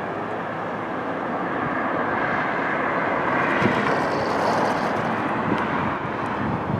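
A large fire apparatus driving past on a code 3 response: engine and road noise swelling to a peak about four seconds in, then easing off.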